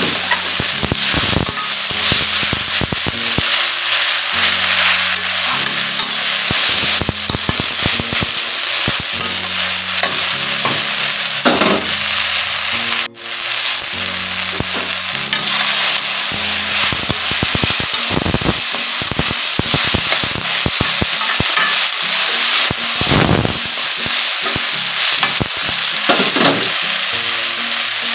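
Sliced okra sizzling in hot oil in a pan, with a spatula stirring and clicking against the pan. There is a brief dropout about halfway through.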